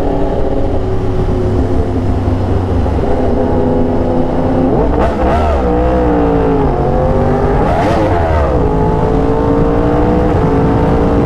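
Yamaha R1 sportbike engine running steadily at road speed, heard from the rider's seat with wind rush. Twice, about five and eight seconds in, its pitch swings up and back down.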